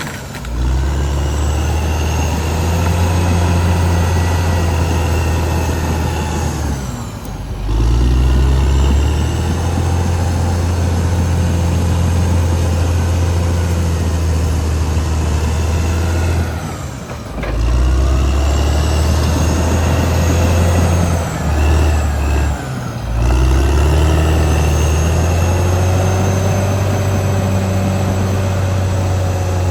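Caterpillar D6R XL bulldozer's diesel engine running hard under load, with a high turbo whine. The engine note dips briefly three times, about a quarter, halfway and three-quarters of the way through, and climbs back each time.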